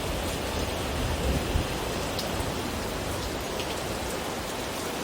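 Steady rain falling on the surfaces around, an even hiss with scattered drops, and a brief low thump about a second and a half in.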